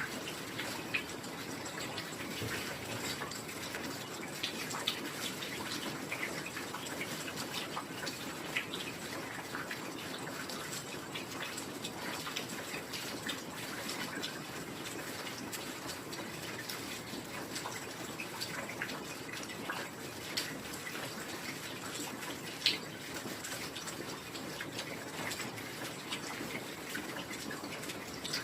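Steady heavy rain, an even hiss of falling water with many individual drops pattering through it and a few sharper drips standing out now and then.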